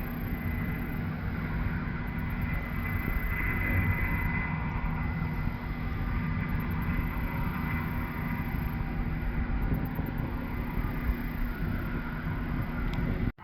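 Class 8 Case combine harvester running steadily as it harvests soybeans, a continuous machine drone with a faint steady whine.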